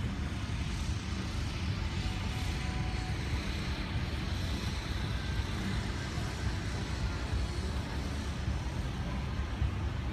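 Steady low vehicle rumble, engine and road noise from a slow drive.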